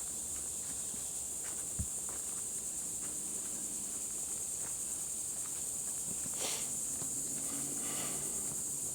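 Steady high-pitched insect chorus, with scattered footsteps on the trail and a short rustle of leaves or brush about six and a half seconds in.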